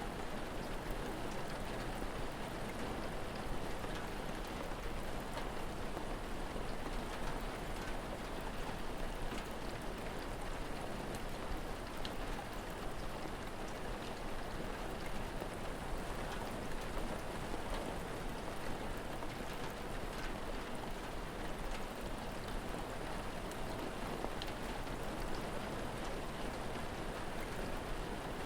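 Steady rain falling, with scattered faint crackles of a fire.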